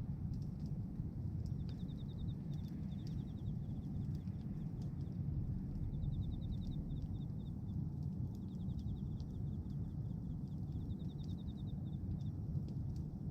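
Bonfire of pruned tree branches burning, with scattered sharp crackles over a steady low rumble. A high, rapid trill comes and goes in short bouts several times.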